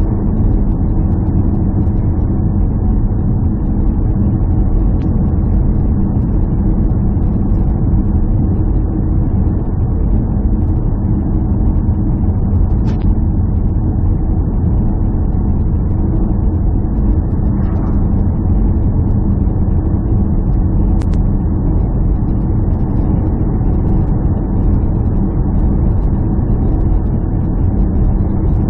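A steady, unbroken low engine drone, as of a motor vehicle running at constant speed, with a couple of faint ticks.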